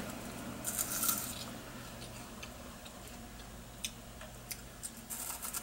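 Faint, scattered mouth clicks of someone chewing a soft snack, over a steady low room hum.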